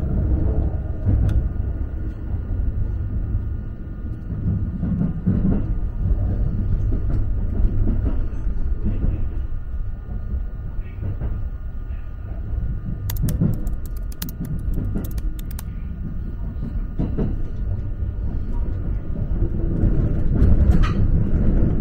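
Cabin sound of the JR East E261-series Saphir Odoriko electric train running on the rails: a steady low rumble with occasional thumps from the wheels on the track. About two-thirds of the way through there is a quick run of sharp clicks.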